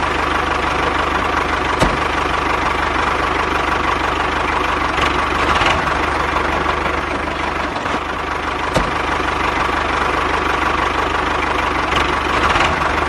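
Motor of a homemade mini tractor running steadily at a constant speed, with a couple of brief clicks.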